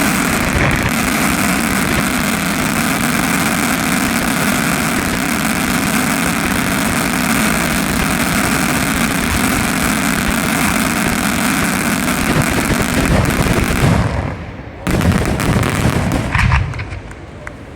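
Fireworks crackling in a dense, continuous barrage of rapid pops for about fourteen seconds, then dropping off suddenly, with one last short flurry that dies away near the end.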